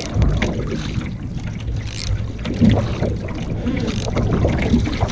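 Wind buffeting the microphone in an uneven low rumble, over water splashing and lapping around a canoe.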